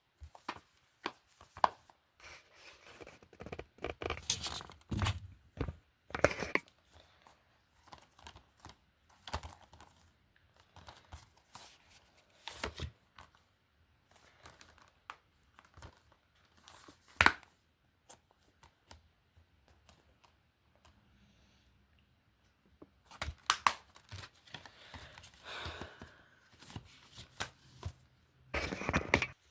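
Film and TV disc cases being handled: irregular clicks, knocks and rustling, busiest in the first few seconds and again near the end, with a quieter stretch about two-thirds of the way through.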